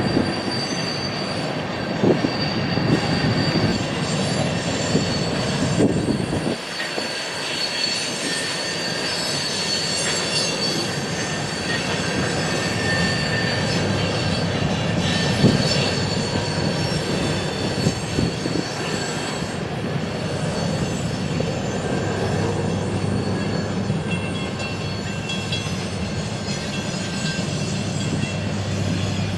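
A train rolling past, its steel wheels squealing against the rails in thin, high, shifting tones over a steady rumble, with a few sharp knocks. A low steady hum comes in near the end.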